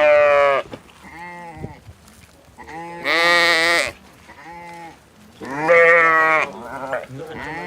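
Farm animals bleating: three loud, wavering bleats a few seconds apart, with quieter bleats in between.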